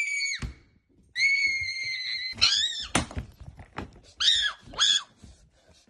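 High-pitched squealing cries: a long held squeal cut short by a thump, another long held squeal, a second thump, then short rising-and-falling cries.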